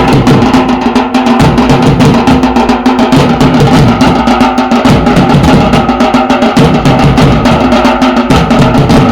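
Loud, fast drumming with fast, even beats over music that holds a steady note.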